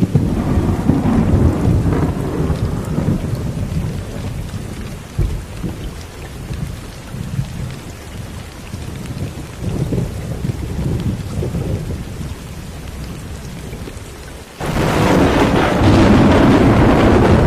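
Steady rain with thunder rumbling low, dying down through the middle. About fifteen seconds in, a loud burst of thunder starts suddenly and keeps rolling.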